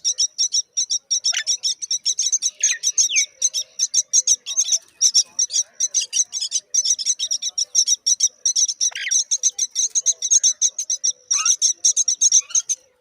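Baby mynas giving rapid, high begging chirps, about five or six a second without letup, as they are fed; a few lower calls that slide downward in pitch break in now and then.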